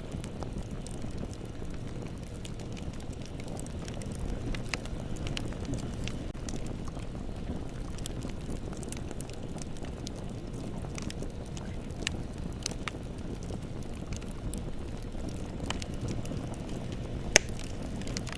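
Bonfire burning: a steady low rush of flames with scattered sharp crackles and pops, and one louder pop near the end.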